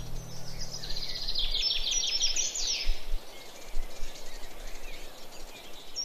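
Birds singing and calling: a fast run of rapid, high repeated chirps in the first half, with scattered whistled calls around it.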